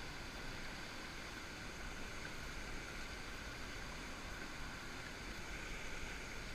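Steady rush of moving river water, muffled by a GoPro's waterproof housing.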